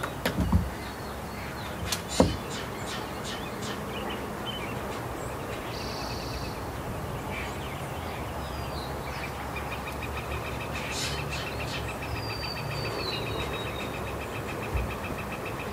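Small birds chirping and calling, with a falling whistled note and a long, evenly pulsed trill in the second half, over a steady low rumble. Two sharp knocks come about half a second and two seconds in.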